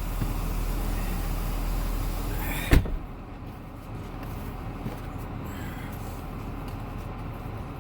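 Steady hiss over a low rumble, then one sharp slam nearly three seconds in, after which the hiss drops away and only a quieter low rumble remains: a car door shutting.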